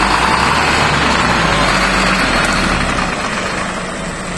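Fire truck engine running loudly with a steady low hum, growing gradually fainter.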